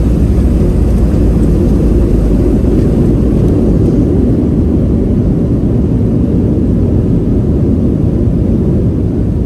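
Boeing 737-700 cabin noise, heard from inside the cabin: a loud, steady rumble of the CFM56 jet engines and airflow, easing off slightly near the end.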